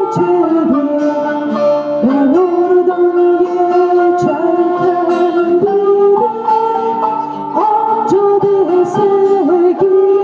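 A singer holding long, bending notes over acoustic guitar accompaniment in a live acoustic performance.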